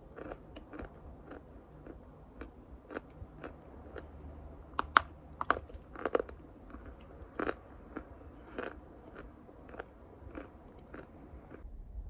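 Pieces of chalk being bitten and chewed close to the microphone: irregular crisp crunches about twice a second, the loudest around five and six seconds in.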